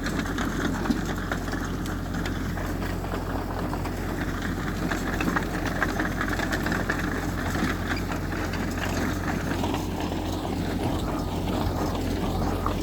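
Heavy diesel earthmoving machinery running steadily, a low engine rumble with faint scattered clicks and rattles.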